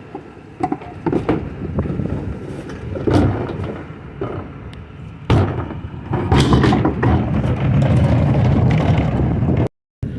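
Recycling collection truck at work: scattered knocks and clatters, then about five seconds in a sudden loud rush of dense clattering noise that runs for several seconds before cutting out briefly near the end.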